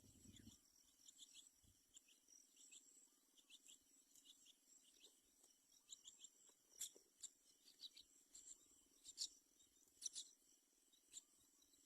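Faint, irregular high-pitched chirps and ticks, a few each second, over a low steady hum.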